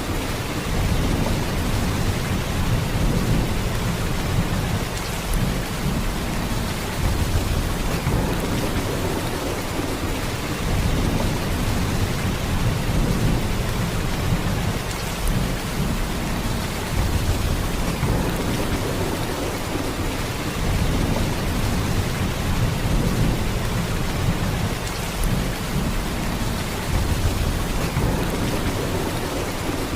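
Steady heavy rain downpour: a dense, even hiss of rain with a deep low rumble underneath that slowly swells and fades.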